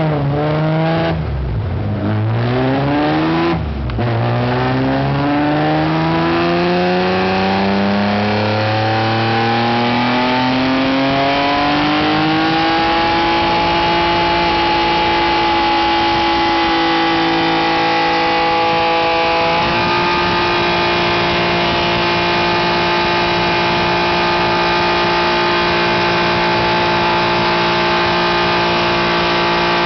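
BMW S54 straight-six in an E36 M3, running on a chassis dyno through a custom 3-inch exhaust and titanium muffler. The revs drop sharply twice in the first four seconds, then climb steadily in pitch for about nine seconds under load, and the engine holds a steady high speed for the rest.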